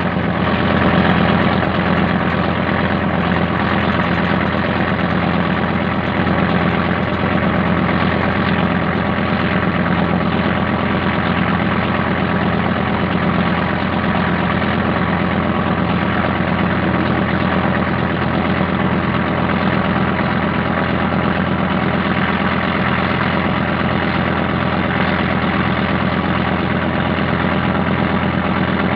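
Boat engine running steadily at an even, unchanging speed.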